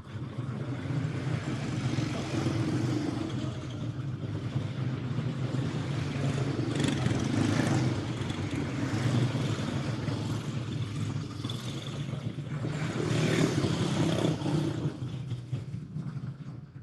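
Quarter midget race cars' small single-cylinder Briggs & Stratton Animal engines running on track at low speed, several together. The sound swells and eases as the cars pass, loudest twice.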